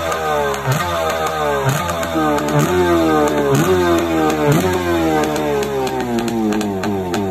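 Kawasaki 650 X2 two-stroke 650cc engine revving in repeated throttle blips, about one a second: each a quick rise in pitch followed by a slower fall back. In the second half the revs run down for longer before one more blip at the end.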